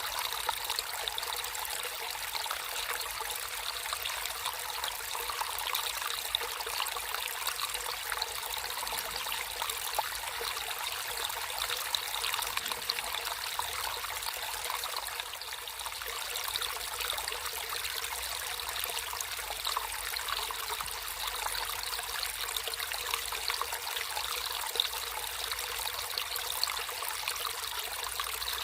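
Water running and trickling steadily over stones in a small stream, a continuous splashing babble with no pauses.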